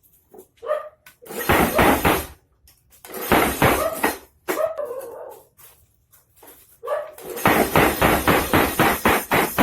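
Mechanical power hammer striking hot steel in rapid blows, about five a second, in short runs with pauses between them, and then running steadily from about three-quarters of the way in. A few short pitched sounds, like barks or calls, come between the runs.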